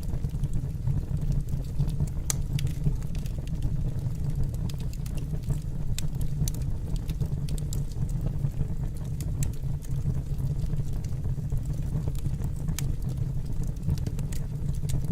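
Fire burning in a fireplace: a steady low rumble of the flames with frequent scattered sharp crackles and pops.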